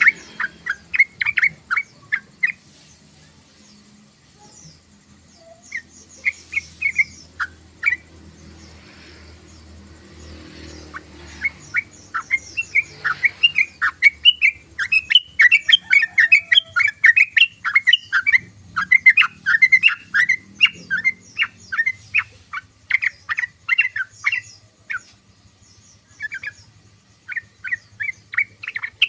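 Yellow-vented bulbul (trucukan) chattering in quick runs of short bubbly notes. It pauses twice in the first half, then calls almost without a break from about halfway on.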